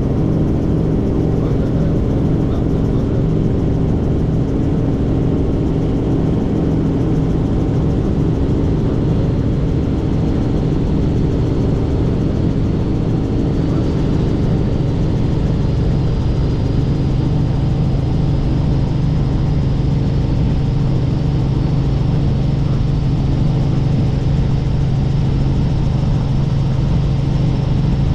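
Helicopter in flight: a steady drone of engine and rotor, with a faint high whine that comes in about halfway through and rises slightly.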